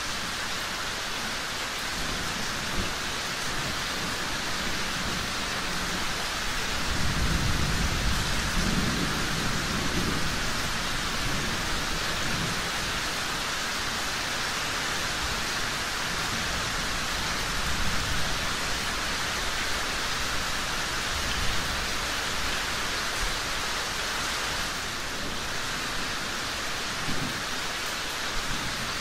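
Steady rain falling, with a low rumble of distant thunder swelling about seven seconds in and fading a few seconds later.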